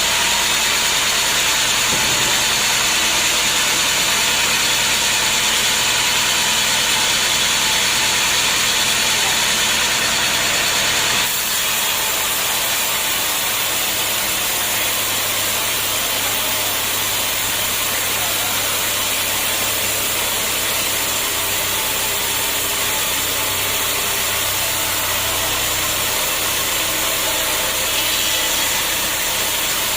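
Homemade band sawmill running steadily, its motor and blade making a loud, continuous noise as it works teak logs. The sound changes abruptly about a third of the way in.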